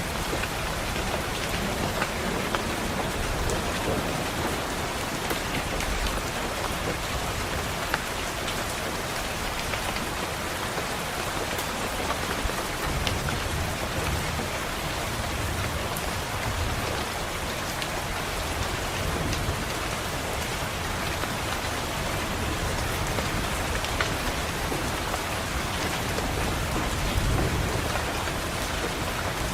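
Steady rain pattering on window glass, with low rumbles of distant thunder swelling and fading several times.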